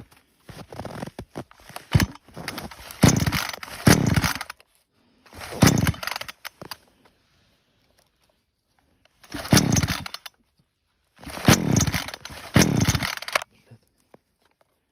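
Two-stroke chainsaw revving in four bursts, the engine pitch falling back after each one, with quiet gaps between them.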